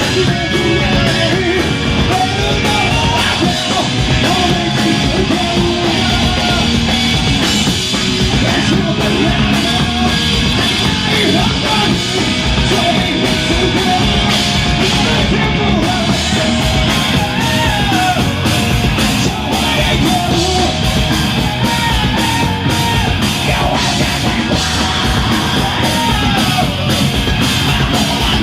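Live rock band playing loud, steady punk-style rock with drum kit and electric guitars, and a voice yelling over it.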